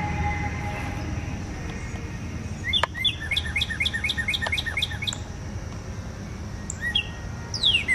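Northern cardinal song: a quick run of about five short whistled notes a second, starting nearly three seconds in and lasting about two seconds, then a single chirp and, near the end, clear downslurred whistles.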